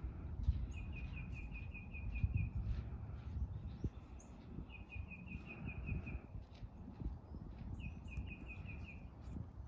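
A songbird singing a quick trill of evenly spaced high notes, repeated three times with pauses between, over a steady low outdoor rumble.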